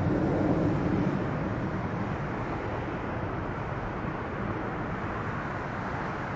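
Jet engine noise of a Boeing 777 climbing away after takeoff: a broad, steady rumble that slowly fades.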